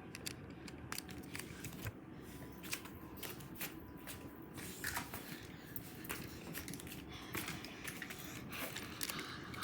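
Faint, scattered clicks and taps of small objects being handled, a few every second, the kind of sound made by moving plastic toy trains about.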